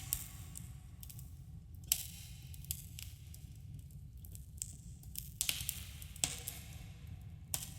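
Campfire crackling in a cave, with a subtle echo. Sharp wood pops come every second or so over a steady low rumble, and a denser cluster of crackles and hiss comes about five and a half seconds in.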